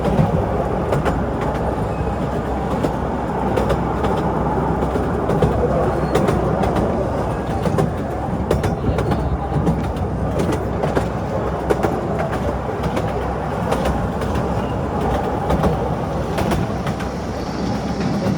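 Artouste narrow-gauge tourist train running along its track: a steady rumble from the wheels and cars, with many small irregular clicks and knocks from the wheels on the rails.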